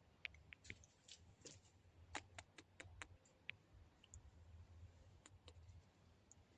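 Faint, irregular clicks and taps over a low, steady hum.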